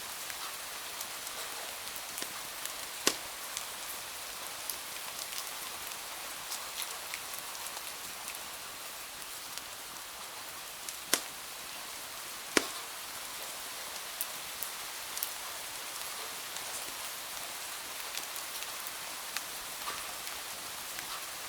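Steady rain hiss with scattered sharp pops from a crackling wood fire. Three pops stand out, about three, eleven and twelve and a half seconds in.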